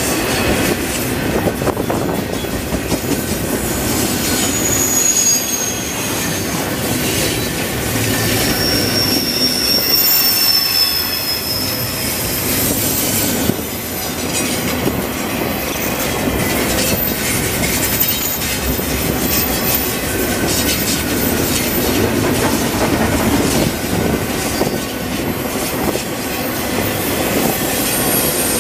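CN intermodal freight train of double-stack container well cars and then autorack cars rolling past: a steady rumble of steel wheels on rail, with clacking over rail joints and brief high-pitched wheel squeals at several moments.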